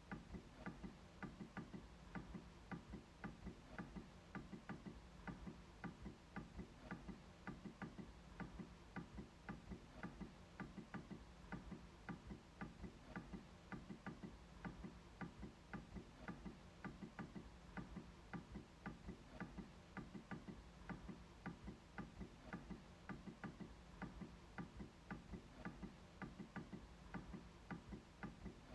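MacBook trackpad being clicked over and over, a soft, even run of clicks a few times a second.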